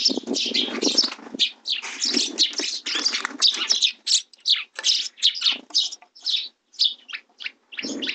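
Sparrows giving a rapid run of short, sharp chirps mixed with rustling; the chirps thin out and come further apart toward the end.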